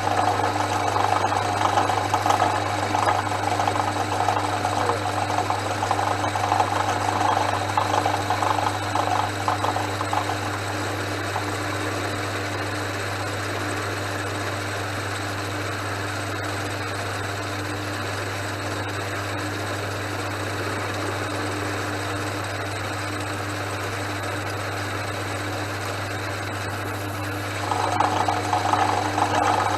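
Portass Model S lathe running with a steady motor hum, while a parting tool cuts into the spinning round bar. The rough cutting sound is strong for about the first ten seconds, drops away, and comes back near the end.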